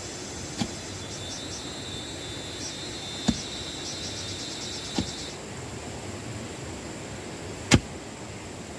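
Four sharp knocks a second or more apart, the last the loudest, over a steady high insect drone. A rapid chirping insect call runs through the first half and stops a little past the middle.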